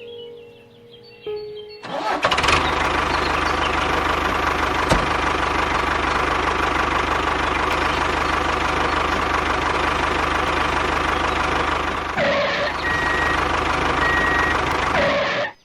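A small engine starting up about two seconds in and running loudly and steadily, then cutting off abruptly near the end.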